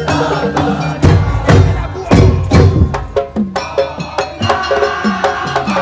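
Madurese tong-tong music: a rhythmic ensemble of wooden percussion with pitched melodic parts, and heavy low drum strikes coming in about a second in.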